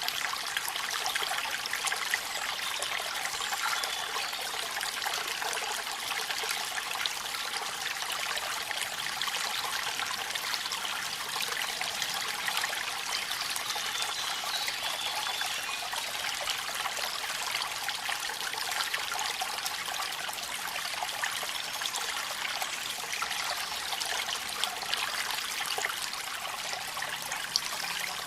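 Rain falling with the running water of a waterfall: a steady, even hiss of water with many small drop ticks through it, unchanging throughout.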